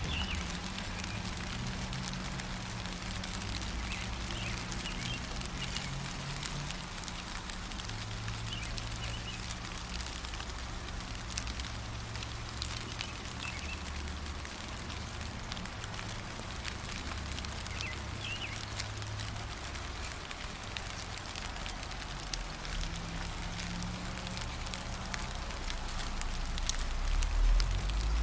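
Steady gentle rain pattering, with a few brief bird chirps, over a low rumble that swells near the end.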